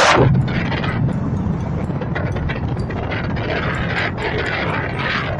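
Motorbike riding along the road: the engine running steadily under a rush of wind noise, with a brief louder gust about at the start.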